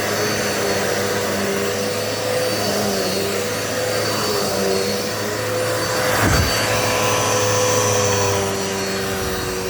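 Dirt Devil Multi-Surface vacuum cleaner running steadily while vacuuming carpet, its motor making a constant hum with a high whine. About six seconds in the pitch dips briefly and recovers, then the sound runs slightly louder.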